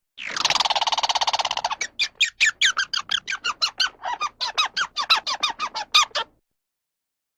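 A bird squawking: one long harsh call over the first couple of seconds, then a rapid run of short squawks, about four a second, that stops abruptly about six seconds in.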